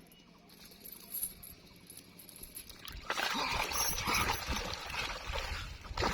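Water splashing and sloshing, faint at first and becoming loud and busy about halfway through.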